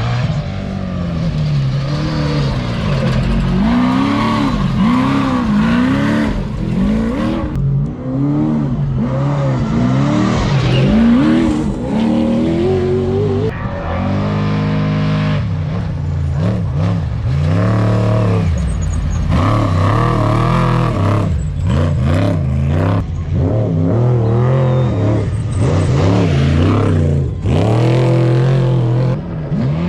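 Trophy truck race engines revving hard and repeatedly, the pitch climbing and dropping about once a second. The engine note changes abruptly a few times.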